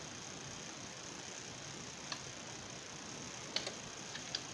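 A few light clicks of a 3D-printed plastic rail being fitted onto an airsoft M4, over a steady background hiss.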